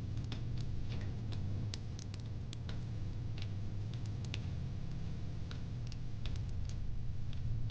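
Wood fire in a fire pit crackling: irregular sharp pops and snaps, a few each second, over a steady low rumble.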